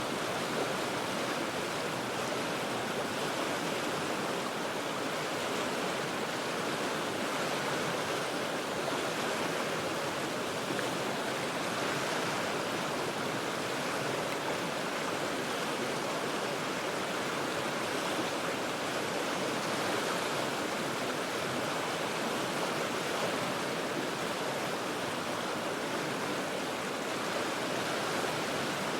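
The Cheat River flowing over rocks: a steady, even rush of water with no change throughout.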